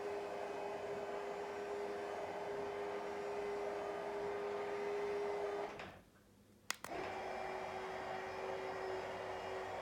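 Battery-powered Dooya tubular motor of a cassette roller blind running with a steady hum and whine, cutting out about six seconds in. A sharp click follows, then the motor starts again with the same hum.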